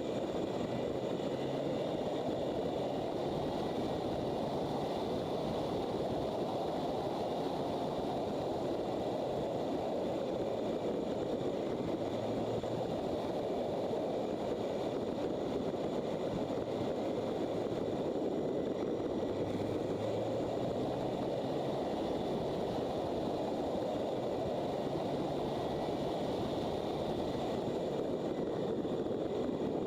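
Motorcycle riding at road speed: steady wind rush over the microphone, with the engine note coming through faintly now and then.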